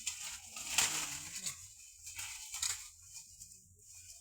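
Young elephant chewing bamboo: irregular crunching and cracking, loudest about a second in.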